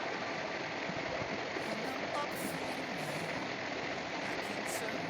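Steady rush of hot mineral-spring water running into the bath, an even hiss that holds at one level.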